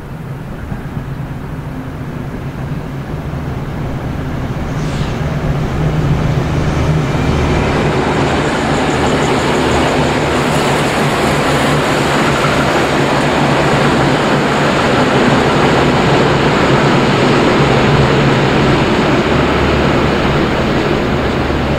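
V/Line VLocity diesel multiple unit running past close by, its diesel engines humming under the rising rumble of wheels on rail. It gets steadily louder, with a faint high whine joining about a third of the way in.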